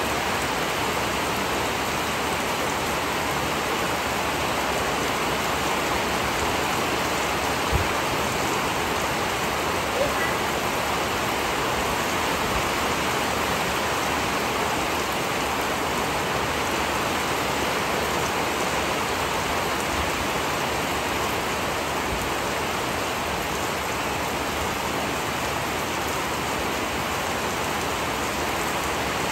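Steady rain falling, an even hiss that holds unchanged throughout, with two soft thumps about eight and ten seconds in.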